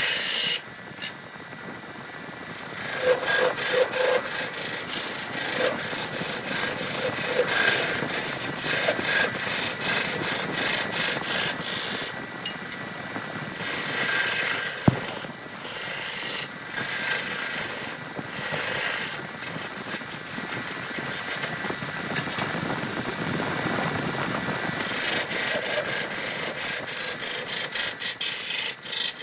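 Hand abrasion of wood: many quick rubbing, rasping strokes, with a few short pauses between runs.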